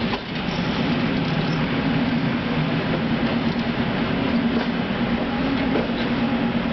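Passenger train hauled by an EP2K electric locomotive rolling into the station. A steady rumble runs throughout, with a few faint clicks of wheels over rail joints.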